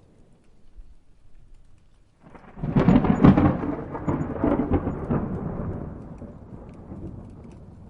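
A peal of thunder starts suddenly about two seconds in. It crackles at its loudest for about a second, then rolls away and fades over the next few seconds.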